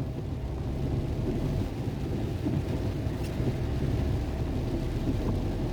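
Heavy rain falling in a downpour, heard as a steady low rumble with little hiss.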